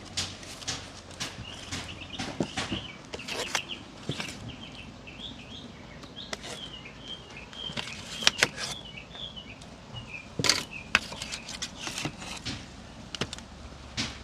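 A bird chirping in a quick run of short high notes for several seconds, over scattered sharp clicks and knocks.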